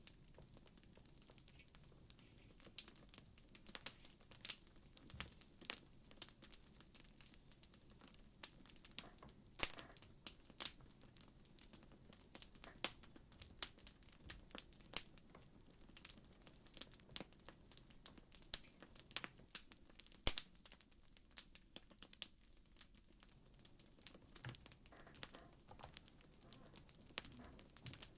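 Crackling wood fire, faint, with irregular small pops and snaps over a low hiss.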